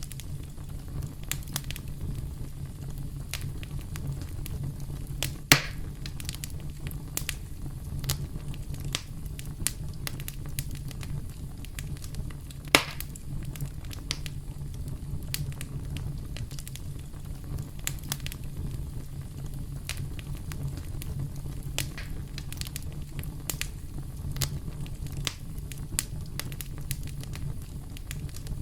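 Campfire crackling: a steady low rumble of burning with frequent small pops and snaps, and two louder sharp cracks about five and thirteen seconds in.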